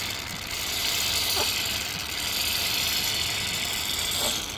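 Aerosol can of spray chain lube hissing as it is sprayed onto a motorcycle chain, in long steady bursts with brief breaks, stopping near the end.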